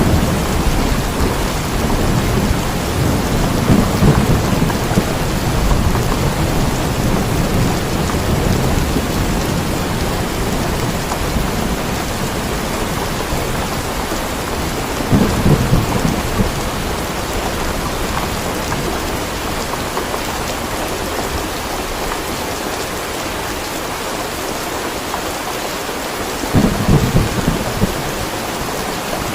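Steady rain with thunder: a low rolling rumble at the start, then two short rumbles, one about halfway through and one near the end.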